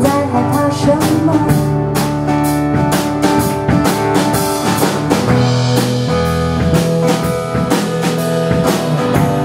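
Band playing an instrumental passage of a pop-rock song: a drum kit keeps a steady beat under guitar and bass.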